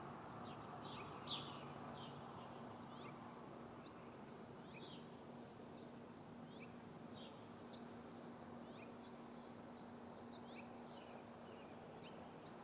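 Faint, scattered chirps of small songbirds, short high notes coming every fraction of a second, one louder about a second in, over a faint steady low hum.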